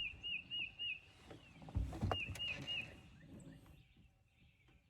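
A songbird gives two short runs of three or four quick, repeated whistled notes, one at the start and one about two seconds in. A couple of low thumps come just before the second run.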